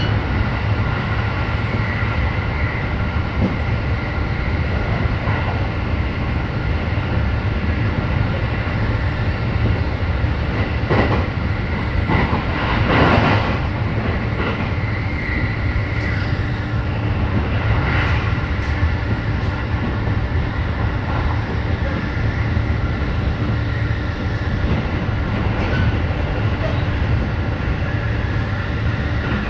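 Interior running noise of a JR East E531 series electric commuter train at speed: a steady rumble of wheels on rail under a faint steady high whine. A few brief louder clatters come through, the loudest about thirteen seconds in.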